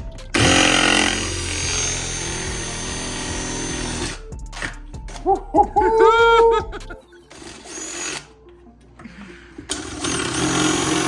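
Power drill boring a hole through a 1991 Honda CRX headlight housing to clear the fuel return line. It drills steadily for a few seconds, then, about halfway through, gives several short trigger pulses with the motor whine rising and falling. The drilling picks up again near the end.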